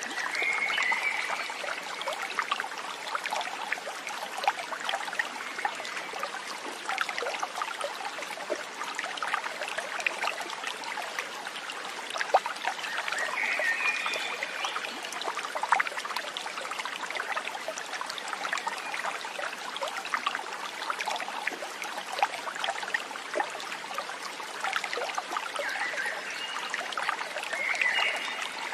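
Small stream trickling and babbling over stones, steady throughout. A few brief higher calls come about a second in, around the middle and near the end.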